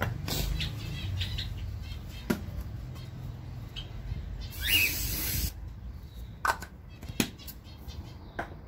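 Small aviary birds calling with short high chirps, the loudest a falling chirp inside a brief hissing rustle about five seconds in, with a few sharp clicks scattered through.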